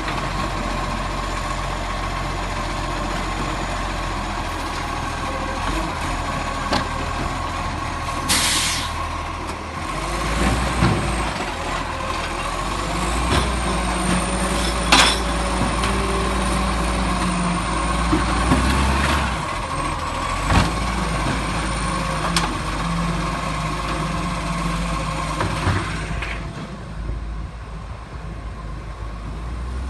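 Garbage truck's diesel engine running, with a short air-brake hiss about eight seconds in. The engine revs higher for several seconds in the middle, and there is a sharp clack about halfway through.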